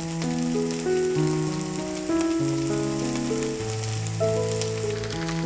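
Battered fresh-seaweed (miyeok) pancakes sizzling in oil in a frying pan, a steady hiss with fine crackling. Over it runs background music of held notes that shift in pitch every second or so.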